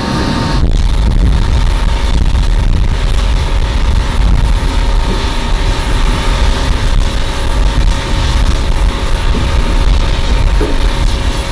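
Steady jet engine noise of a USAF E-3 Sentry's four TF33 turbofans: a deep, even rush with a few constant whining tones, starting abruptly about half a second in.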